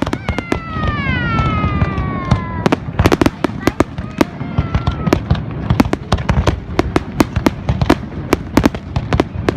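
Fireworks going off: a dense, irregular run of sharp cracks over a low rumble. Near the start a whistle falls steadily in pitch for about two and a half seconds.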